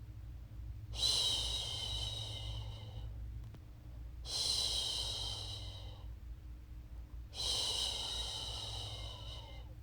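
A woman's voice making a long soothing 'shhh' shushing sound three times, each lasting about two seconds with short pauses between, to settle a baby to sleep. A faint steady low hum runs underneath.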